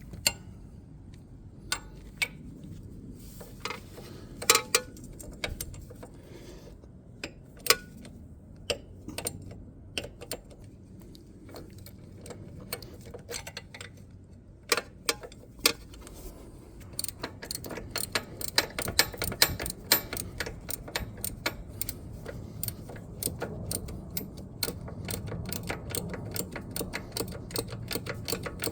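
Hand ratchet wrench clicking as it backs out the engine guard bolts, with scattered metallic clinks of tools and parts. About halfway through, the clicking turns into a fast, continuous ratcheting.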